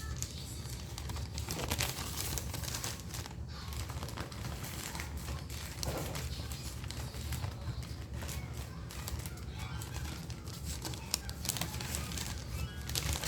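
Sterile glove packaging being unfolded and handled: irregular crinkling and rustling of the wrapper.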